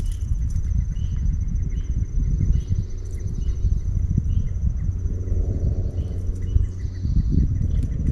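Insects chirping outdoors: a steady high trill with short repeated chirps about twice a second, over a constant low rumble. A low hum swells and fades about five to seven seconds in.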